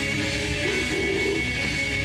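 Live heavy rock band playing: distorted electric guitars and drums, recorded in a club.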